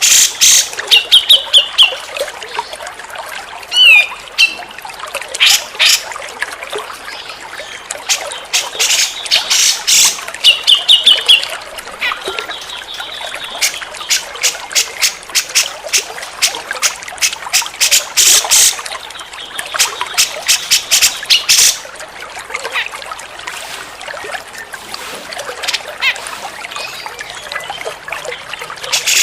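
Cucak jenggot (grey-cheeked bulbul) calling in clusters of short, sharp, harsh notes, with a few brief trills and a falling whistled note. Water trickles steadily underneath.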